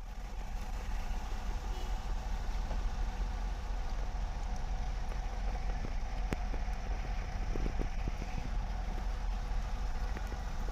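Vehicle engine and road noise running steadily, with a few faint clicks in the second half.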